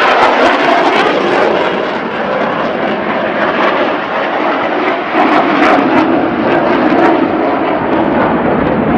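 Airplane flying past at an air show: a loud, steady engine roar whose tone shifts lower about five seconds in.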